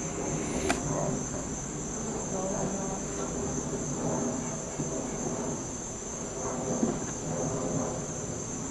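Honey bees buzzing close by at the hive entrance, over a steady high-pitched insect trill. A single sharp click comes a little under a second in.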